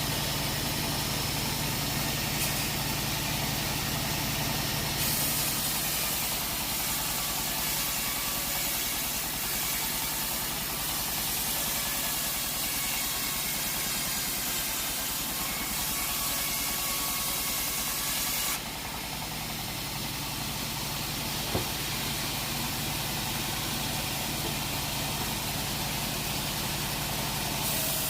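An engine running steadily at a sawmill, with a single short knock about three quarters of the way through.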